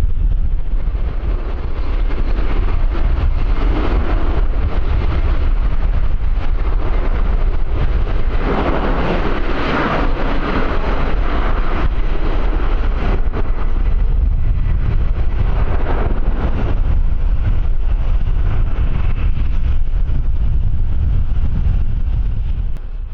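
Strong wind buffeting the microphone: a steady low rumble with a louder, noisier swell about eight to eleven seconds in.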